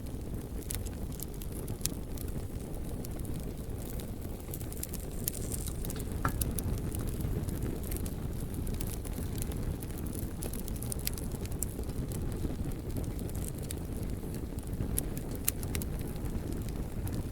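Wood fire burning in a fireplace: a steady low rumble of flame with frequent small crackles and pops from the logs.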